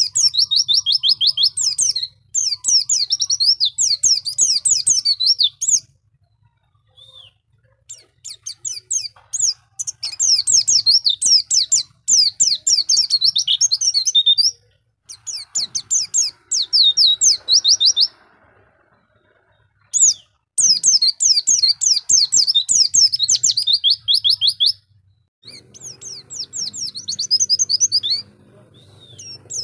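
White-eye (pleci) singing long runs of rapid, very high twittering notes, each run lasting a few seconds with short pauses between, over a faint low hum.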